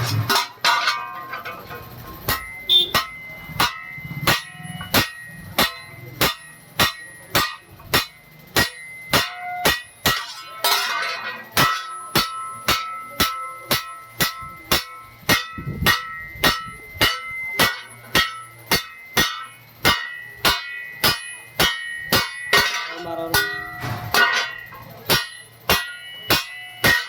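Hammer striking metal, about two blows a second in a steady rhythm, each blow ringing.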